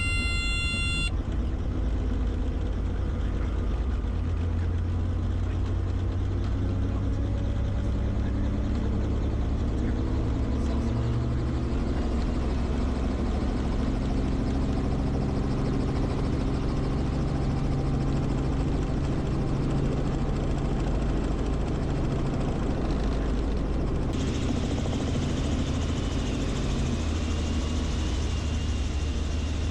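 Helicopter engine and rotor running, a steady low rumble with engine tones slowly rising and falling. A high tone of several pitches cuts off about a second in.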